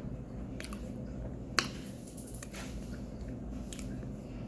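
Someone chewing a mouthful of cornstarch: soft squishy bites with a few short sharp clicks, the loudest about one and a half seconds in.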